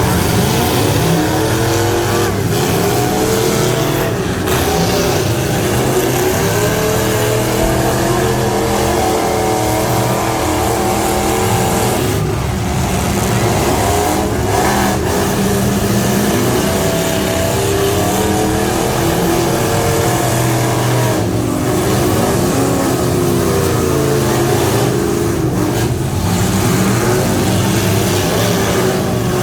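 Half-ton pickup truck engine running hard at high revs, its pitch repeatedly rising and dipping.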